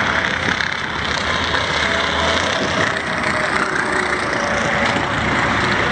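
Car engines idling under a steady wash of outdoor noise, with a low engine rumble that fades in and out.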